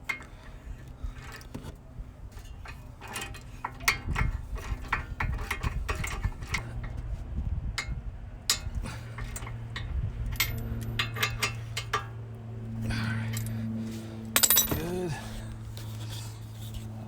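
Metal tools and steel suspension parts clinking and clanking in irregular knocks, with a steady low hum joining about six seconds in.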